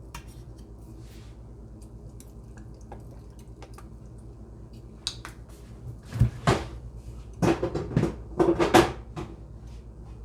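Kitchen items being handled: a few sharp knocks and clatters of containers, pots and cupboard doors in the second half, over a steady low hum.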